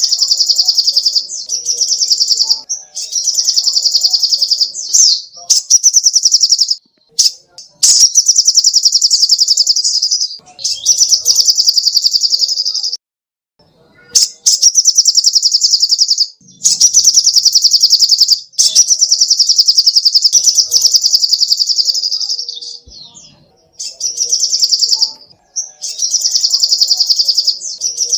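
Little spiderhunter (sogok ontong) calling in long, rapid, high-pitched chattering trills. Each trill lasts one to three seconds, with short pauses between them and one longer pause about halfway through.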